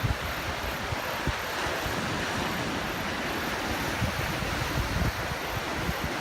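Wind buffeting the microphone in uneven low gusts over a steady rush of sea surf against the shore.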